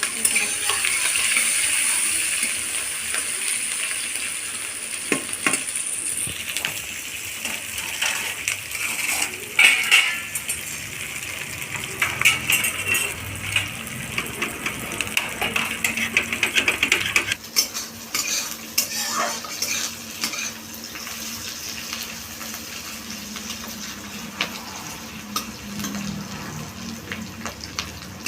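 Sliced onions and green chillies sizzling in hot oil in a cooking pan, the hiss strongest over the first few seconds, then a metal spatula clinking and scraping against the pan as they are stirred and lightly fried.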